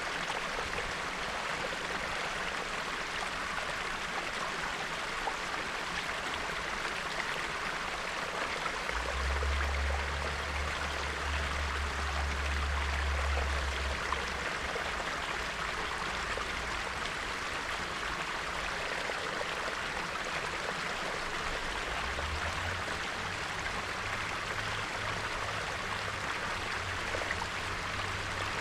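A small, clear stream of snowmelt bubbling steadily over its bed. A low rumble comes in about nine seconds in, lasts about five seconds, and returns near the end.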